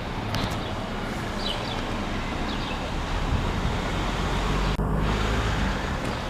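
Street traffic noise with wind rumbling on the microphone; the low rumble grows louder in the second half.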